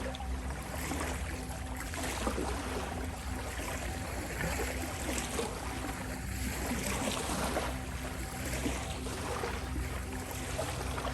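Ocean waves washing in and drawing back in slow swells, over a steady held drone tone, the 528 Hz healing frequency.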